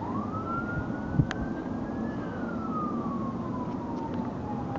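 Emergency vehicle siren wailing in one slow cycle: it rises quickly, peaks about two seconds in, slides slowly down, then starts to rise again near the end. A steady low rumble runs underneath, and a brief knock about a second in is the loudest moment.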